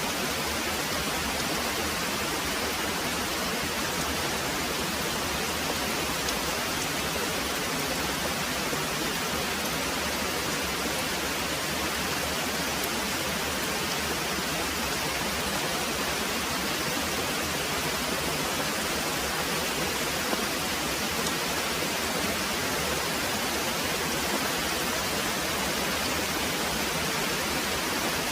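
Very heavy rain pouring steadily, an even, unbroken hiss with no thunder standing out.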